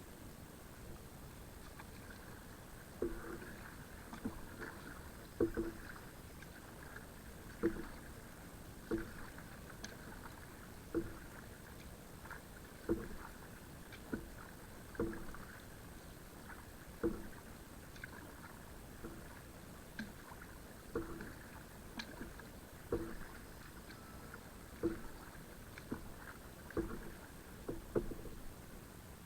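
Kayak paddle strokes dipping and pulling through the water, a regular splash about once a second.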